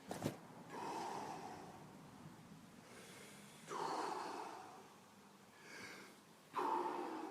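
Wim Hof Method power breathing: deep, forceful breaths drawn in and let go, about one every three seconds, three strong ones in all. There is a short click just after the start.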